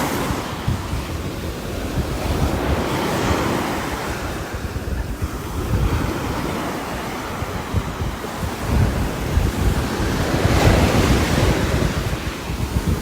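Strong wind gusting through trees in heavy rain, a steady hiss whose gusts swell and ease, strongest about ten seconds in, with low rumbling wind buffeting on the microphone.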